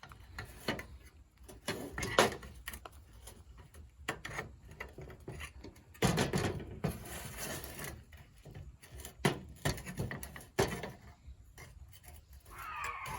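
Screwdriver prying and bending the metal tabs on an LED work light: scattered clicks and taps of metal on metal, with a longer stretch of scraping about six seconds in.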